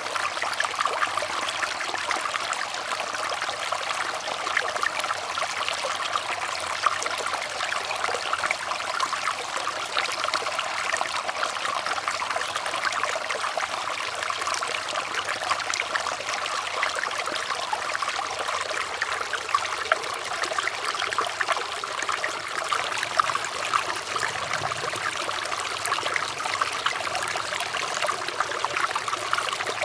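Small stream of water trickling and babbling steadily, a continuous splashy rush with many tiny splashes.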